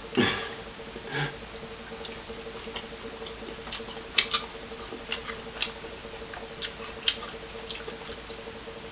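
Eating sounds from a seafood boil mukbang: chewing with irregular sharp, wet clicks and smacks, over a faint steady hum.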